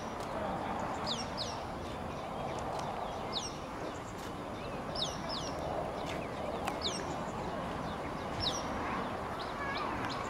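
A bird calling over and over: short, high notes that drop sharply in pitch, often in pairs, about once or twice a second, over a low murmur of background chatter.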